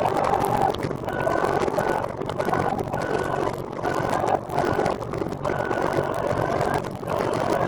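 Wind and rolling noise on the microphone of a recumbent trike under way, dipping briefly every second or so, with a faint high tone coming and going.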